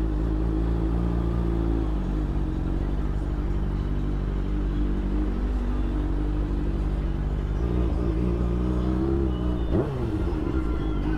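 Vehicle engine running steadily at idle with a deep rumble; about ten seconds in, a short pitch sweep falls sharply.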